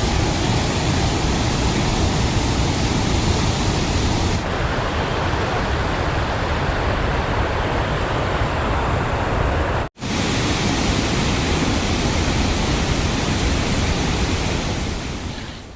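Heavy water discharge through dam spillway gates: a loud, steady rush of falling water, briefly cut off about ten seconds in.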